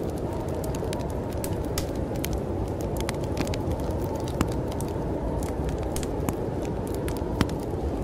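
Wood fire in a fireplace crackling, with frequent small sharp pops at irregular intervals, over a steady low rumble of snowstorm wind.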